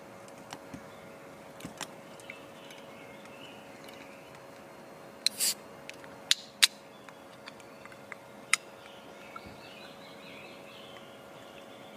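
Faint birdsong over a steady low hum, broken by a few sharp clicks and a short scrape about halfway through, with one more click a little later.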